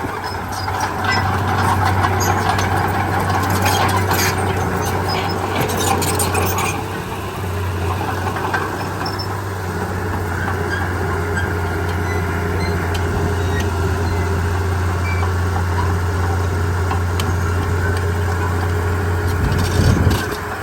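Komatsu D31P bulldozer's diesel engine running steadily under load, with metallic clanking and squeaking of the tracks and blade over the first several seconds. A heavy low thump comes near the end.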